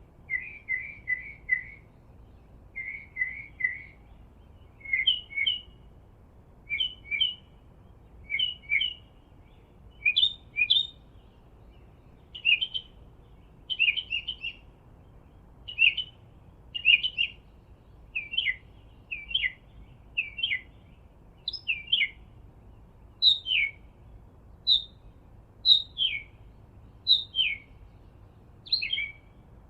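A songbird singing, repeating short chirping phrases of a few quick notes about once a second, with a faint steady outdoor hiss underneath.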